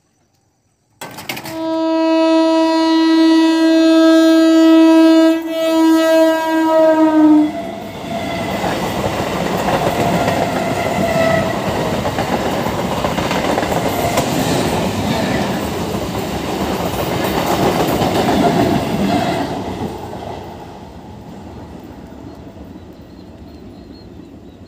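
Electric multiple-unit local train sounding a long, loud horn blast that breaks briefly a couple of times near its end. Its wheels then rumble and clatter over the rails as it passes for about twelve seconds before fading away.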